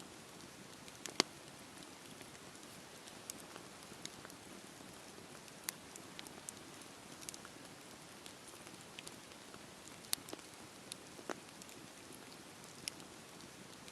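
Campfire burning: a steady soft hiss of flames with irregular sharp crackles and pops of burning wood, the loudest pop about a second in.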